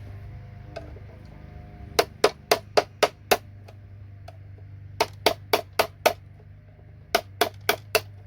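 Hammer blows knocking components off a circuit board: three bursts of quick sharp strikes, about four a second, separated by short pauses.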